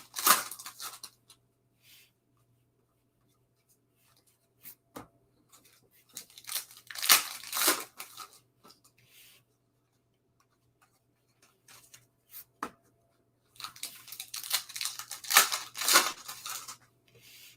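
Foil trading-card pack wrappers being torn open and crinkled by hand, in three bursts of tearing: one near the start, one in the middle and a longer one near the end.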